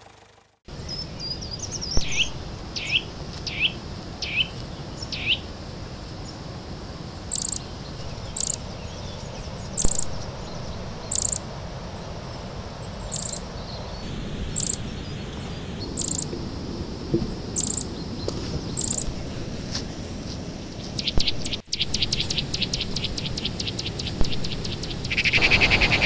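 Wild birds calling in forest: a run of five quick falling calls, then short high notes repeated about once a second. Near the end comes a fast rattling trill.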